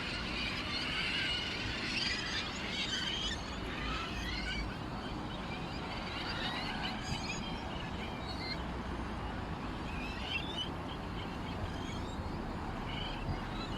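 Many small birds chirping and twittering together, densest in the first few seconds and thinning to scattered chirps later, over a steady low background rumble.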